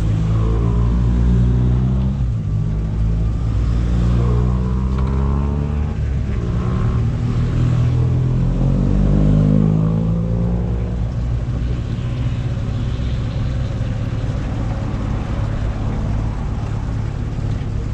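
A vehicle engine running under way, its pitch falling and rising as it eases off and accelerates in the first half, then settling into a steadier drone with travel noise.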